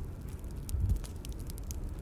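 Bonfire crackling: irregular sharp pops and snaps over a steady low rumble, with a louder low thud about halfway through.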